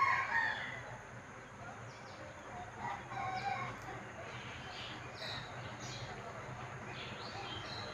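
A rooster crowing faintly, once near the start and again about three seconds in, with a few faint small-bird chirps.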